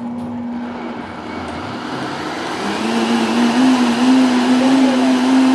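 Electric blender running, grinding coconut with water to make coconut milk. Its motor note is steady at first, then drops and climbs as it gets louder about halfway through.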